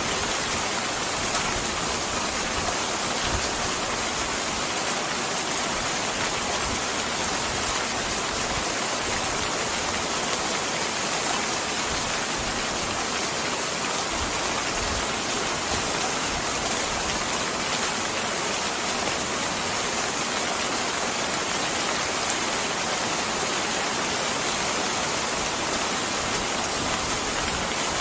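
Steady, even rain, a dense hiss of drops falling without letup, with a few faint pops from a crackling wood fire.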